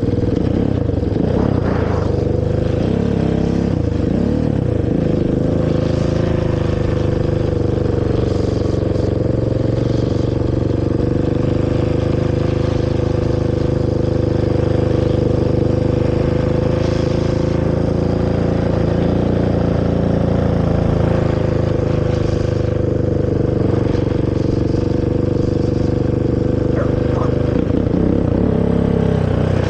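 Honda TRX450R quad's single-cylinder four-stroke engine running through its stock exhaust while being ridden, holding a mostly steady pitch, with brief throttle changes a second or two in and again near the end.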